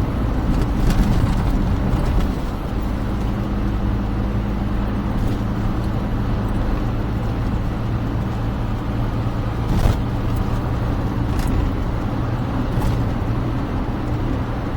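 Smart car driving along: a steady engine and road drone, a little louder for the first two seconds, with a short knock about ten seconds in.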